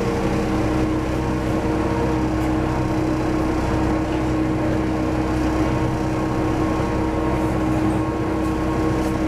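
Diesel railcar's engine and running gear heard from inside the car, a steady drone with constant humming tones and no change in engine speed.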